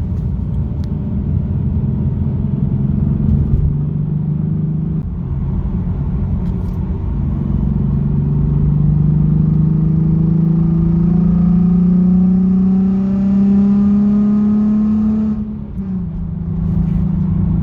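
Exhaust of a 2017 Nissan 370Z's 3.7-litre V6 running through a muffler delete (straight stainless axle-back pipes) under way, its note rising slowly and steadily for several seconds, then dropping suddenly near the end and holding steady.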